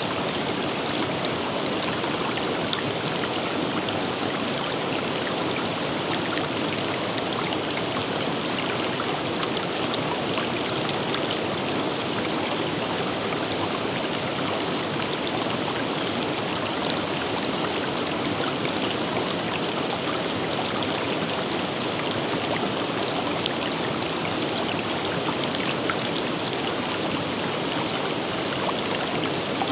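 River water flowing steadily over rocks, an even rush with small splashes and droplet ticks scattered through it.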